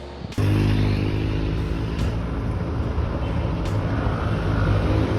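A vehicle engine running loud and steady, cutting in abruptly about half a second in.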